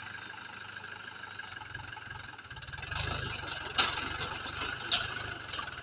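Mahindra 415 DI XP Plus tractor's four-cylinder diesel engine running, growing louder about two and a half seconds in, with a rattle and clatter over the engine from then on.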